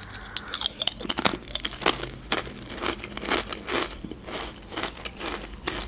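A crisp snack chip bitten and then chewed close to the microphone: a quick, irregular run of crunches.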